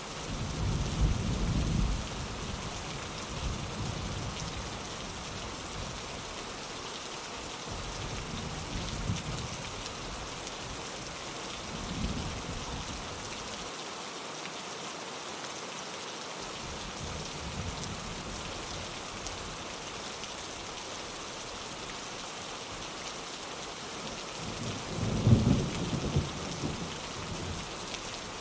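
Steady rain pattering on a window glass, with rolls of thunder rumbling underneath: a strong one right at the start, softer ones a few times after, and the loudest about three-quarters of the way through.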